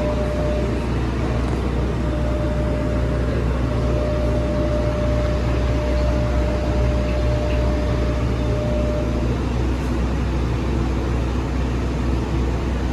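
Steady low machinery hum with air noise, and a thin steady whine that stops about nine seconds in.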